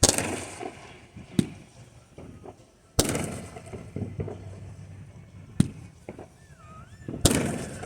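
Fireworks display: five loud shell bursts at uneven intervals, each with a rolling rumble after it, and smaller crackling pops between them. Shortly before the last bang a wavering whistle rises and falls.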